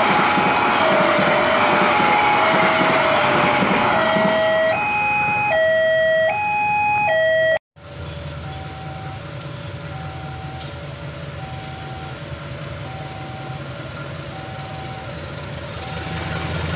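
Level-crossing alarm sounding its alternating two-tone signal over the loud rush of a passenger train passing. After a sudden cut about eight seconds in, a diesel locomotive's engine runs with a low rumble as it draws in, with a single tone beeping about every one and a half seconds.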